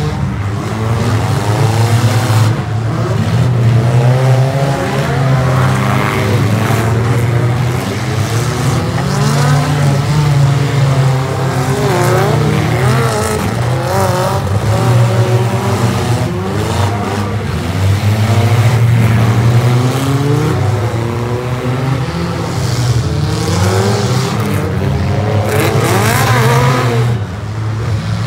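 Engines of several figure-8 derby cars racing together, a continuous loud running whose pitch rises and falls over and over as the cars accelerate, lift off and pass.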